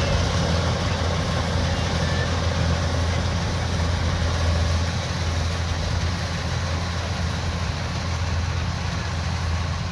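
Kubota DC-105X combine harvester running steadily: a low diesel engine hum with a broad mechanical whir over it.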